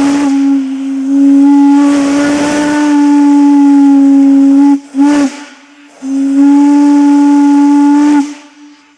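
Steam locomotive whistle blowing one steady note with a hiss of steam, in blasts: a long blast, a short toot about five seconds in, then another long blast that cuts off near the end.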